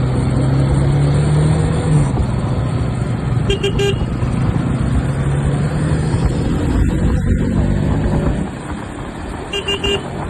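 Wind and engine noise on a moving motorcycle, with short, rapid horn toots about three and a half seconds in and again near the end. The noise drops noticeably about eight seconds in.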